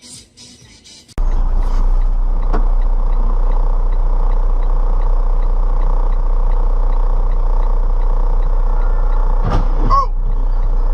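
Road vehicle driving, heard as a loud, steady low rumble of engine and road noise, with faint regular ticking at about four a second. A couple of brief knocks come near the end.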